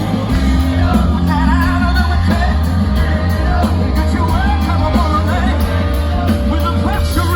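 Live rock band playing loudly, with a singer's voice wailing over a heavy bass line.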